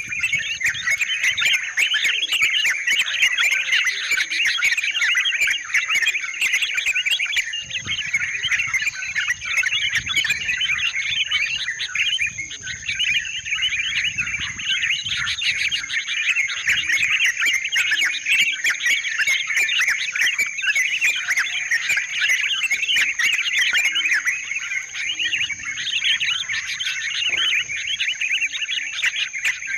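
Yellow-vented bulbuls (trucukan) calling continuously in a dense chorus of overlapping bubbly chattering notes. A steady high whine runs underneath.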